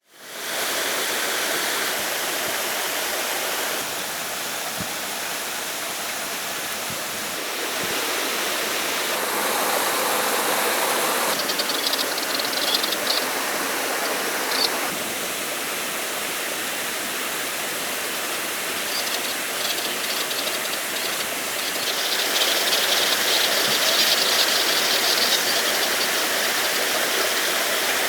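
Steady rushing water of a stream, its tone shifting every few seconds.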